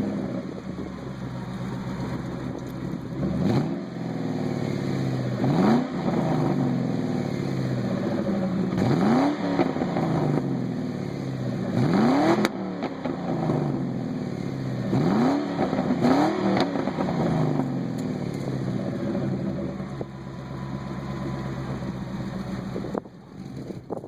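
1997 Lincoln Mark VIII's 4.6-litre DOHC V8 idling through a true dual exhaust with Cherry Bomb turbo mufflers in place of the third catalytic converter, with about six quick throttle blips. The sound drops away sharply near the end.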